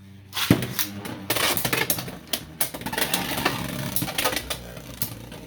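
Two Beyblade X spinning tops, Wyvern Gale and Hell's Chain, hit the plastic stadium about half a second in, then spin and collide with rapid sharp clicks and clattering over a steady spinning hiss.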